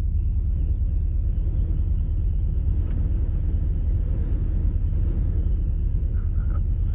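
Strong wind buffeting a parked Volkswagen Vanagon, heard from inside the cab as a steady low rumble.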